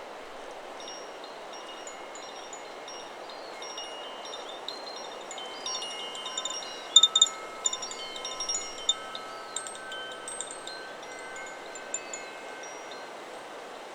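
Chakra Chimes 'Solar Plexus' wind chime ringing in the wind, its tubes sounding several long, overlapping high tones. A busy cluster of louder strikes comes in the middle, over a steady hiss of wind.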